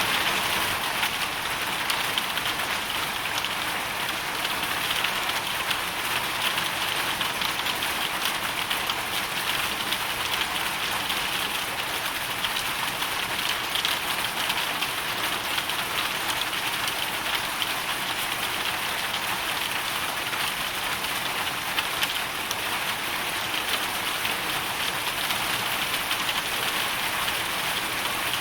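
Hailstorm: a steady, dense hiss of countless small hailstones and rain striking a hard surface, with no let-up.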